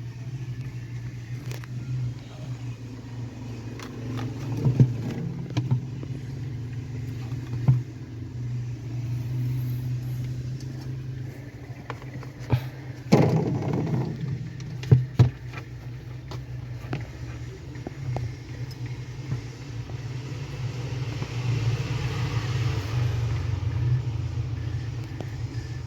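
Refrigerator compressor running with a steady low hum, pumping refrigerant normally while the freezer cools down. A few knocks and clatters sound over it; the loudest is a cluster about 13 seconds in, then two more near 15 seconds.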